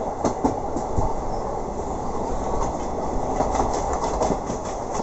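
Passenger train running on the track, a steady rumble with scattered wheel clicks over the rail joints.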